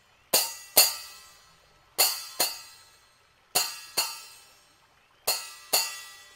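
A ringing metal percussion instrument struck in pairs, two quick strokes about half a second apart, four times over at an even pace, each stroke ringing out and fading.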